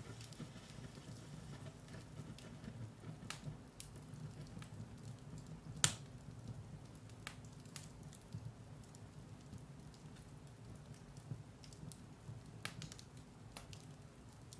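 Firewood burning in a fireplace: a low steady rumble of the flames with scattered sharp crackles and pops, the loudest pop about six seconds in.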